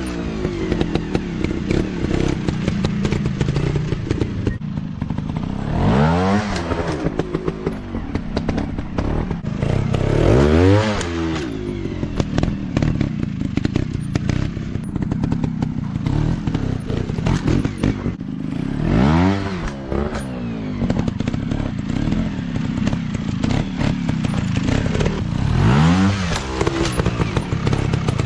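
Dirt bike engine revving up and falling back again and again, several sharp rises in pitch in turn, with many knocks and clattering under it.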